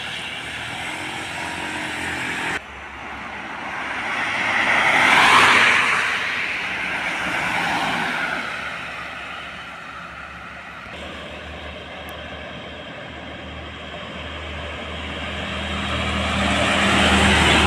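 Road traffic: heavy vehicles passing one after another, the tyre and engine noise swelling and fading with each pass. The loudest pass comes about five seconds in, and another engine grows louder near the end.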